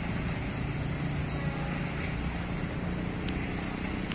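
Steel wheels of a freight train rumbling steadily on the rails as the last container flatcar rolls away, with one sharp click about three seconds in.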